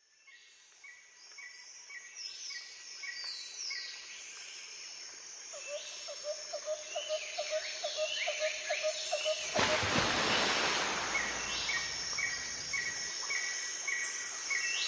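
Birds chirping and calling, fading in: repeated short high chirps and falling whistles, with a rapid pulsing lower call in the middle. About two-thirds of the way in, a loud even rushing noise joins them.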